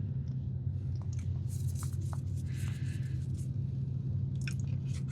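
Soft chewing and wet mouth clicks from eating a cookie close to the microphone, with a few short rustles, over a steady low hum.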